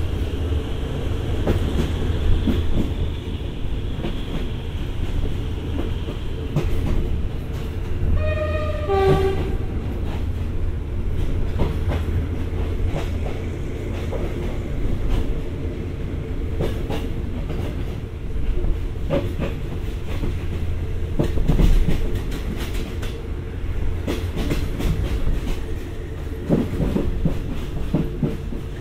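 Passenger train carriage running slowly, heard from inside the coach: a steady low rumble with wheel clicks over the rail joints. About eight seconds in, a brief falling run of high notes sounds over it.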